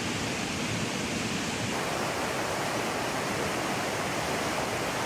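Mountain creek flowing, a steady rush of water, with a slight change in its tone about two seconds in.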